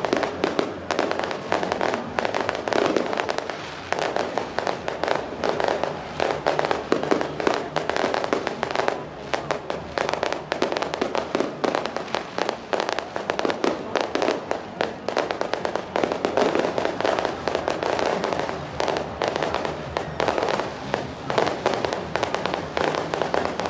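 Firecrackers going off in a dense, unbroken rapid crackle of bangs, like a long string of firecrackers set off in a barrage.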